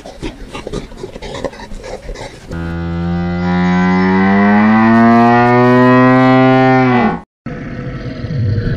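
Quick crunching clicks for the first couple of seconds, then a loud, long moo-like call from a large animal. The call rises slowly in pitch for about four and a half seconds and dips just before it cuts off. After a moment's silence, a low rumbling noise follows.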